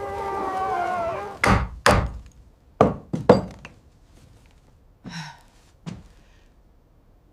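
Wolves howling, several gliding voices that fade out in the first second or so, then a run of heavy thuds and knocks: about five loud ones close together, followed by two fainter ones a few seconds later.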